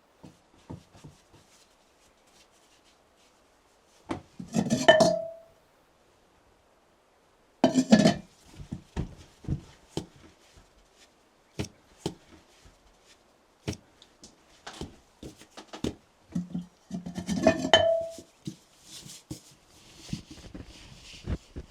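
Dishes and kitchenware being handled: scattered knocks and clinks, with three louder clatters, two of which end in a short ringing note.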